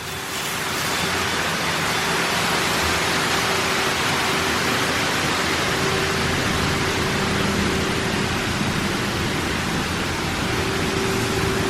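Spot-free rinse water spraying over a car in a touchless LaserWash 4000 wash: a steady hiss of spray that builds over the first second and then holds, with a faint steady hum underneath.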